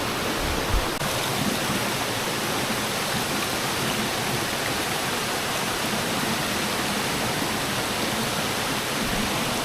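Kitekite Falls waterfall: a steady rush of falling water.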